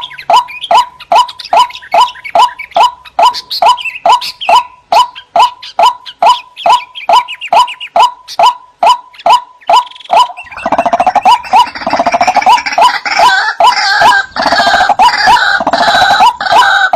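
White-breasted waterhen (ruak-ruak) calling: a steady run of short, clipped notes about three a second. From about ten seconds in, the calling becomes louder and harsher, with several calls overlapping.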